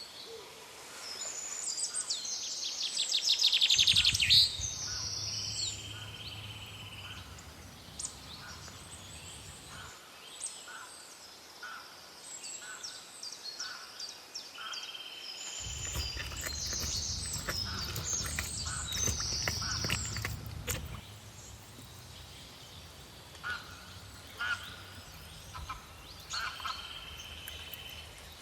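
Several birds chirping and trilling in short high calls, with a low rumble under them for a few seconds about a third of the way in and again past the middle, with a few clicks during the second stretch.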